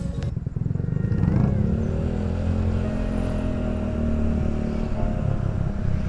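Motorcycle engine running under throttle, its pitch rising about a second in and then holding fairly steady.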